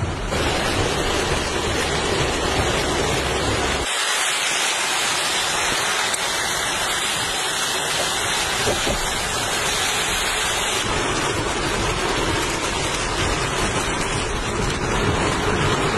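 Heavy rain pouring down in a steady hiss. The sound changes abruptly about 4 seconds in and again about 11 seconds in, with a low rumble present at the start and end but absent in the middle stretch.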